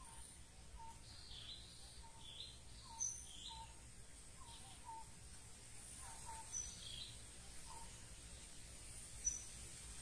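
Wild birds calling: a short low note repeated every half second to a second, with higher chirps over it. The sharpest chirps come about three seconds in and near the end, over a faint steady hiss.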